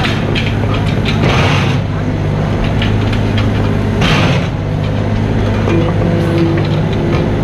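Mini excavator's diesel engine running steadily, with short bursts of scraping and knocking as the machine works. A higher steady whine joins near the end.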